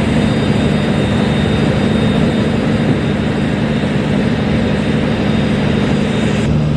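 Ro-ro ferry's machinery running steadily, heard inside the passenger cabin: a loud, even drone with a low hum.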